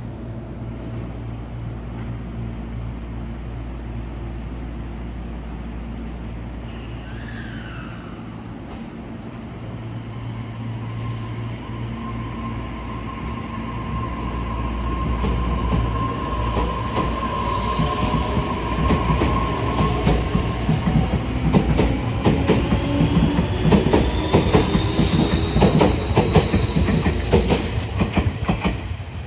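Tobu 60000 series electric train pulling out: a steady low hum at first, then from about halfway the traction motors' whine rises in pitch as it accelerates, with quickening clicks of the wheels over rail joints, getting louder toward the end.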